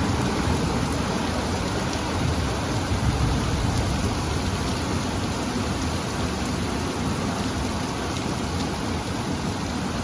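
Heavy rain pouring down steadily, a dense hiss with a deep low rumble underneath.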